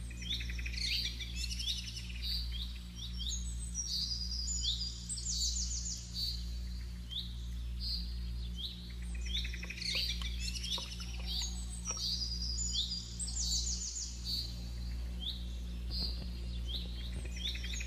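Songbirds chirping and trilling in quick, busy phrases, with a steady low hum underneath.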